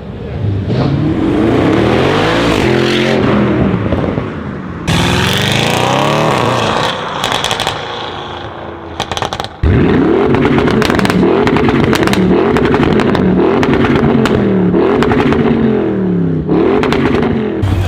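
Audi RS6 engine revving and accelerating hard, its pitch climbing and dropping again and again as it shifts through the gears, with sharp exhaust crackles and pops. The sound changes abruptly twice, as one short clip cuts to the next.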